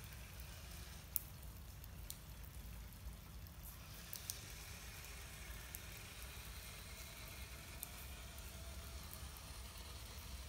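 Light rain falling: a faint, even hiss with a few sharp drop ticks, the loudest about a second in.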